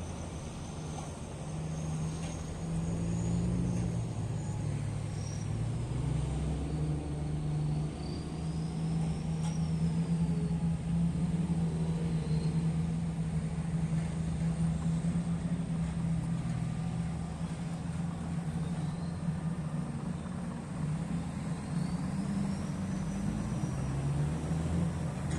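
Heavy mining machine's diesel engine running steadily, a low drone that shifts in pitch now and then. A faint high whine rises and falls several times over it.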